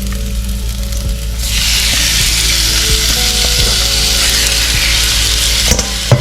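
Pieces of raw turkey going into a hot pan of sauteing onions: the sizzle jumps sharply louder about a second and a half in and stays steady. A sharp click near the end.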